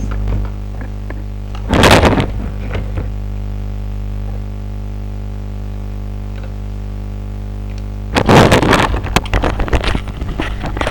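A steady electrical hum, broken by two loud bursts of rustling and clattering, one about two seconds in and one near the end, followed by a few light clicks and knocks.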